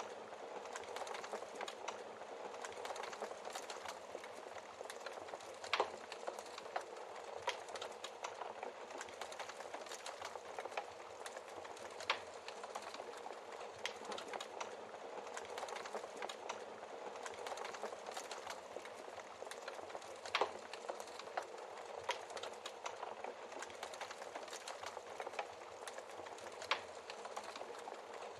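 Wood fire crackling steadily in a fireplace: a soft continuous hiss full of small ticks, with a few louder log pops spread several seconds apart.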